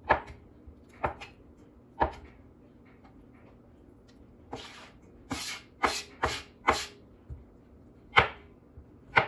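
Knife chopping cooked rotisserie chicken meat: sharp chops about a second apart three times, a pause, then a quick run of four, and two more near the end.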